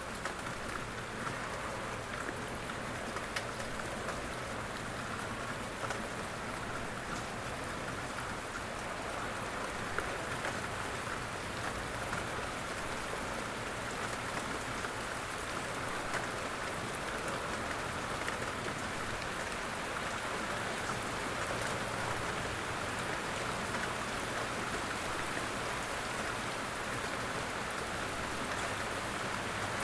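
Steady rain falling, a dense even hiss with scattered small drop patters.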